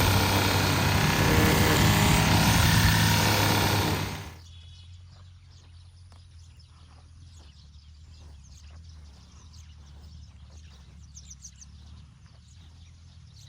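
Petrol string trimmer's small engine running steadily at speed, then cutting off about four seconds in; afterwards only a faint low hum and scattered light ticks remain.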